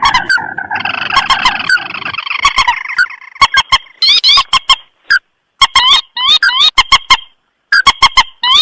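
Lure recording of rice-field rails, the mandar and the tikusan, calling: a dense, overlapping chatter of calls for about three seconds, then bursts of quick rising notes broken by short pauses.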